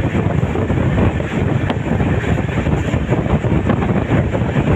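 Wind buffeting the microphone at the open window of a passenger train coach running at full speed, over the steady rumble of the wheels on the rails.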